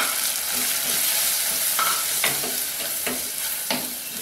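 Onions and tomatoes frying in oil in a clay pot, with a steady sizzle, while a spoon stirs in spice powders and scrapes and taps against the pot's sides several times.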